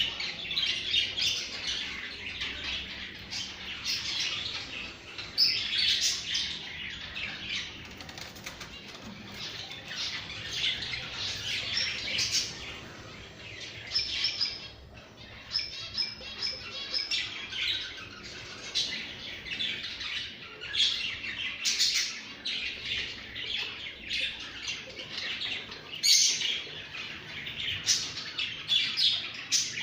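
Several pet birds chirping continuously, with many overlapping short calls and a few brief sharp sounds among them.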